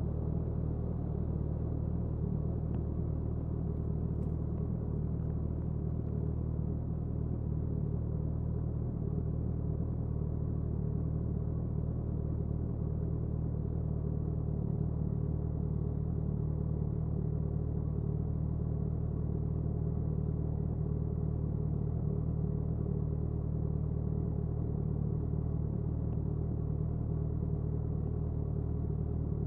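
Suzuki Hayabusa's inline-four exhaust holding a steady engine speed at highway cruise, mixed with wind noise, heard from close behind the bike.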